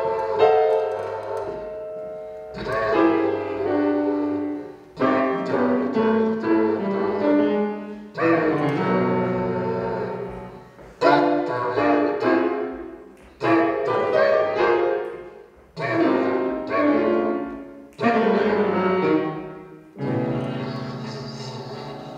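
Live solo instrumental music: phrases of struck, ringing pitched notes, each starting sharply and dying away, a new phrase every two to three seconds.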